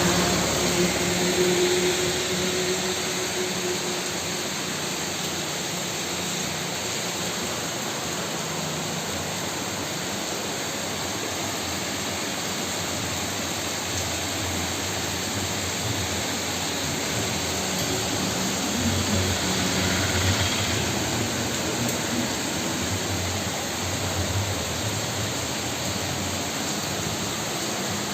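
Heavy rain falling in a steady, even hiss. A low droning hum comes through near the start and again about two-thirds of the way through.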